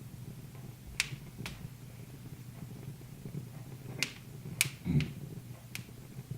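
Wood fire crackling: a handful of sharp, irregular pops from the burning logs, with a duller thump about five seconds in.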